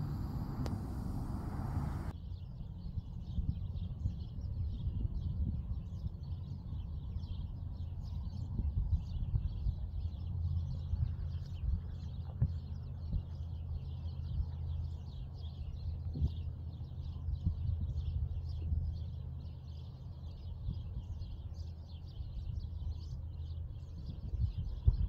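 A short noisy stretch cuts off about two seconds in. After that, many small birds chirp constantly over a steady low rumble.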